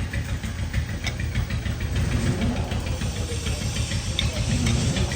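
Machinery running steadily with a fast low throb and a hiss, with a couple of light clicks.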